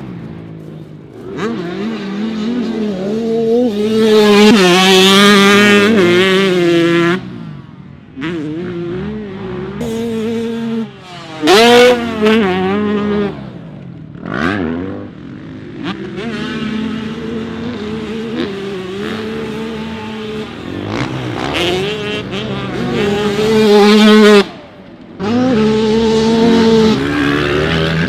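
Two-stroke motocross dirt bikes revving hard and accelerating, the engine pitch climbing and dropping again and again through gear changes and throttle blips. The sound jumps abruptly several times from one bike to another.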